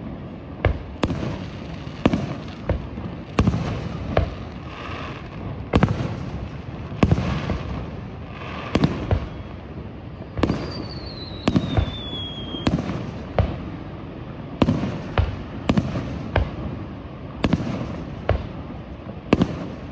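Aerial firework shells bursting in a steady run of sharp bangs, about one a second, each trailing off in a rolling echo. A thin falling whistle sounds for about two seconds midway.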